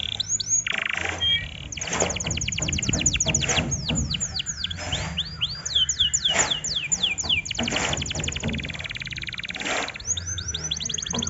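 Domestic canary singing a continuous song of rapid trills and repeated downward-sweeping whistled notes, switching from one phrase to the next every second or two.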